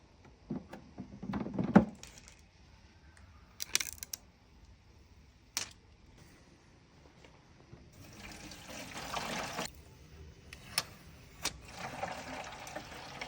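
Handling of a Xiaomi Smartmi Evaporative Humidifier 2: a brief rustle and a few sharp plastic clicks, then water poured into the humidifier twice, about eight seconds in and again near the end.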